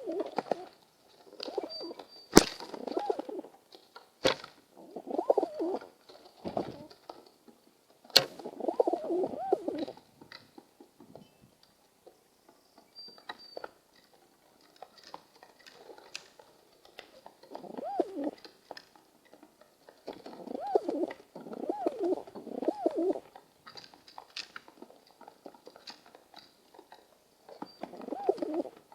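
Pigeons cooing in repeated bouts of low, rolling coos every few seconds, with a few sharp knocks or clicks, the loudest about two seconds in.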